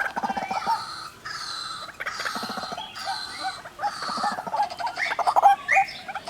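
White-breasted waterhens, male and female, calling: a steady run of repeated notes recurring about once a second.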